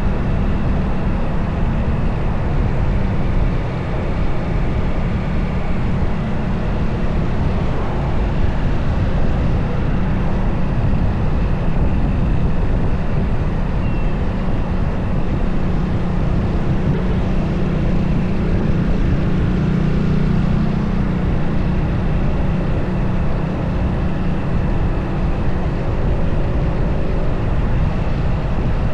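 Motorcycle riding along with its engine running steadily under heavy wind rumble on the camera's microphone.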